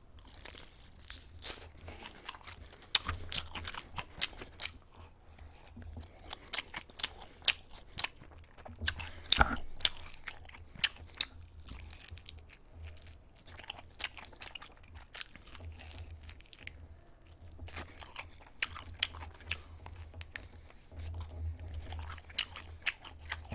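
Close-miked chewing and crunching of cheese-coated chicken pieces eaten by hand: many sharp, irregular crunches with chewing between them.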